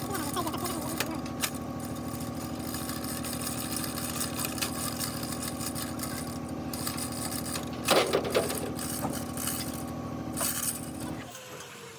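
A motor running steadily at one speed, with a few sharp metallic clicks, the loudest about eight seconds in, then cutting off suddenly near the end.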